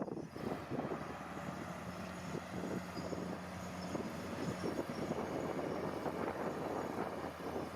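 Heavy earthmoving machinery at work: a diesel engine running under many short rattles and clanks, with a steady low hum holding from about two to four seconds in.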